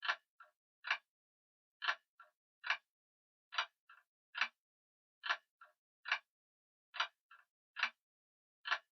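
Grandfather clock ticking slowly: a steady tick-tock of two loud strokes a little under a second apart, the first of each pair followed by a faint lighter click, with dead silence between.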